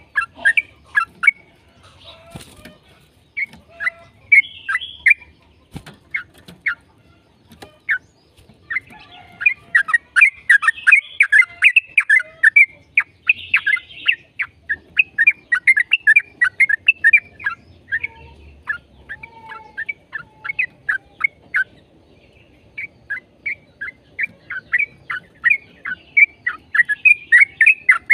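Yellow-vented bulbul (trucukan) singing in fast chattering runs of short, sharp notes. The runs are broken by pauses of a second or more, with the longest gaps around a quarter and two-thirds of the way through.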